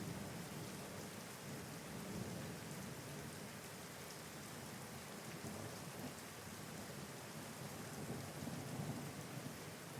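Steady heavy rain hissing on surfaces, under a low, rolling rumble of distant thunder that swells at the start and again near the end.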